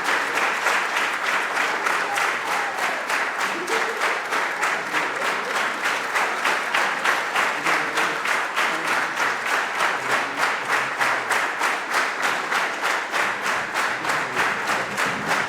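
Audience clapping together in a steady rhythm, about three to four claps a second.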